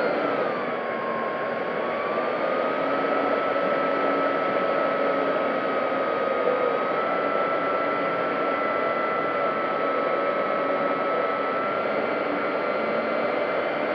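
Electric motor and propeller of an FMS P-40B Warhawk RC warbird in flight, heard from its onboard camera: a steady whine over a rush of wind. The pitch dips about a second in, then holds, rising slightly a couple of times later.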